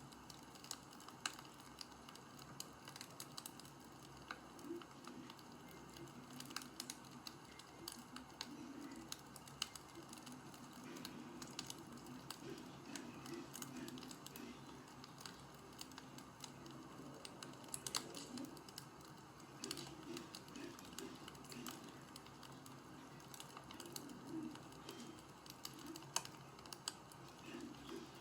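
Faint crackling wood fire: irregular sharp pops and snaps over a soft low rumble.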